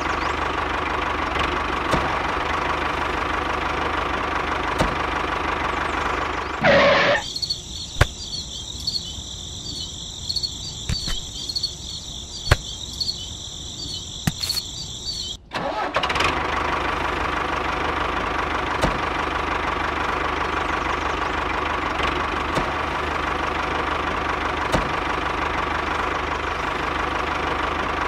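Tractor engine running steadily, with a fine regular knock. For about eight seconds in the middle it stops, and a high wavering whine with scattered clicks takes its place.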